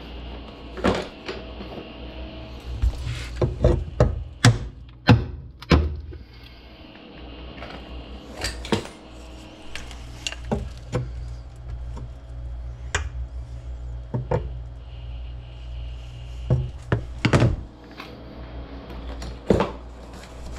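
Irregular knocks, clacks and scrapes of hand tools and metal parts being worked loose in the old outlet box under a sink, over steady background music.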